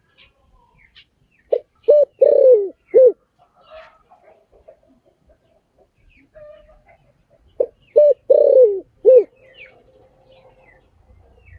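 Spotted dove cooing in two phrases about six seconds apart. Each phrase is two short coos, a longer coo that falls in pitch, then a final short coo. Faint chirps of small birds sound behind.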